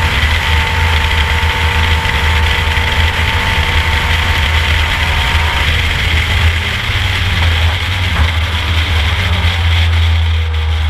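Ford Capri race car's engine running at racing speed, heard from inside the cabin as a steady, heavy low drone over road and wind noise.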